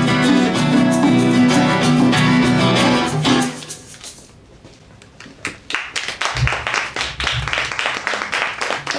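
Band led by a strummed acoustic guitar playing the closing bars of a song, which stop about three and a half seconds in. After a short lull an audience applauds.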